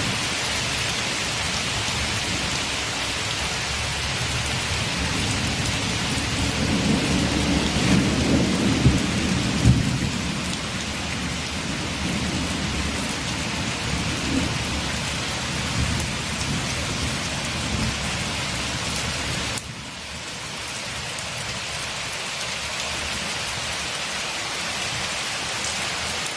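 Steady rain on a window, an even hiss, with a low rumble of thunder that swells about a quarter of the way in and fades a few seconds later. About three-quarters of the way through the rain drops abruptly and continues a little quieter.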